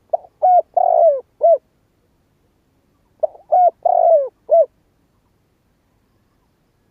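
Spotted dove cooing: two phrases about three seconds apart, each of four notes, the third note the longest and falling in pitch.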